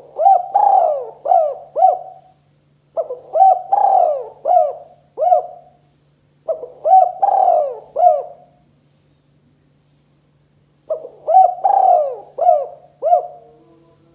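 Spotted dove (tekukur) cooing: four phrases of four or five quick coos each, a few seconds apart. A faint steady low hum runs underneath.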